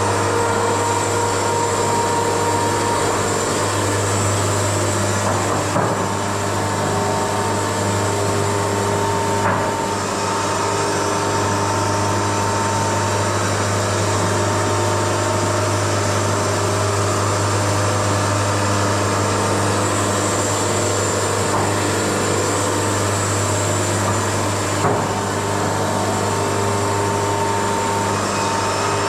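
Wood-Mizer LT70 sawmill running steadily with a constant low drone, and a few light knocks along the way.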